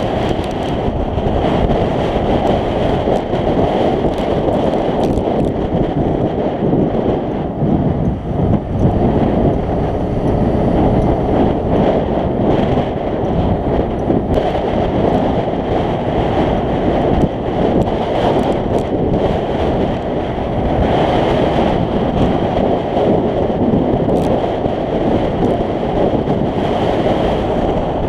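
Wind rushing over the microphone of a camera on a moving scooter, with the scooter's engine running underneath.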